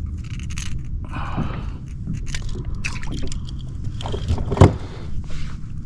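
Close handling noise on a kayak: scraping, rustling and clicking as a freshly caught trout and gear are handled near the microphone, with one sharp knock about four and a half seconds in, over a steady low rumble.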